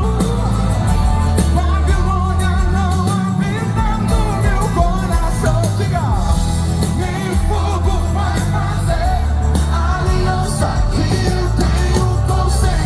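Live Brazilian gospel band playing loudly, with heavy bass and drums under a sung melody.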